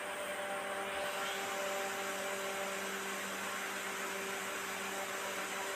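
A steady machine hum with a faint whir, holding a low drone and a few higher tones without change.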